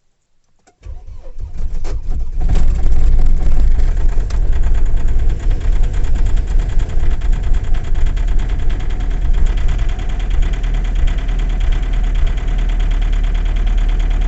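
Opel Frontera 2.2 DTI four-cylinder turbodiesel cold-started at −11 °C: the starter cranks for about a second and a half, then the engine catches, runs up loud and settles into a steady cold idle.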